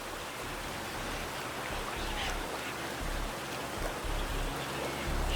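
Steady rush of water, with a few faint bird chirps over it.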